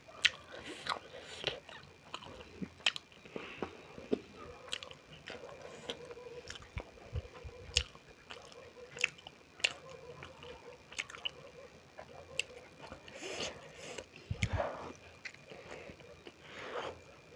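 Close-miked chewing and biting of beef momo dumplings: wet mouth clicks and smacks at irregular intervals, with a few breathy sounds about two-thirds through and again near the end.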